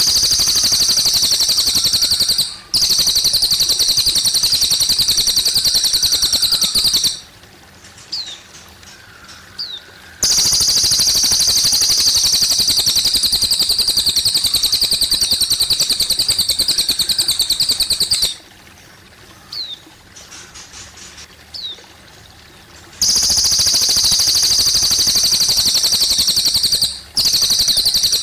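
A cililin bird singing long, rapid, high trills that run for several seconds at a time. Each trill breaks off into a short pause with a few soft chirps, over a faint trickle of water.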